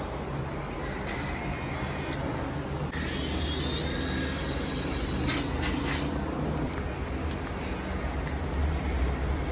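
Small DC-motor toy helicopter running, a rough mechanical buzz with a faint high whine that rises in pitch about three seconds in.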